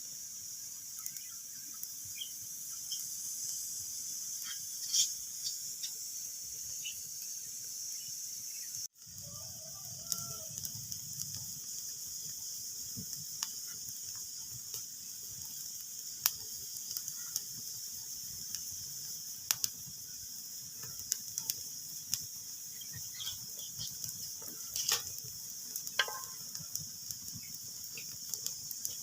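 Wood fire in a fireplace crackling: a steady hiss with sharp pops scattered irregularly through it, and a few brief squeaks. The sound drops out for an instant about nine seconds in.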